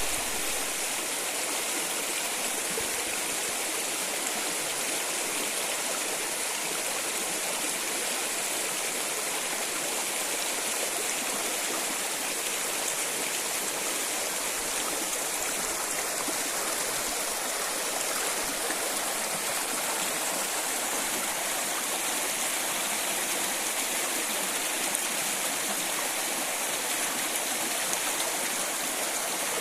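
A forest stream rushing steadily, a constant hiss of running water.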